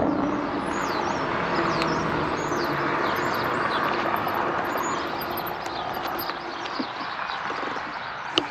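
Steady rolling noise of an electric bike ridden along a trail, easing off toward the end, with many short bird chirps over it.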